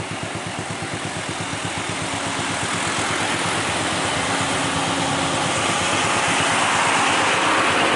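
Diesel engine of a heavily loaded Nissan truck running under load on a steep climb, its slow, even firing beats plain at first, then growing louder.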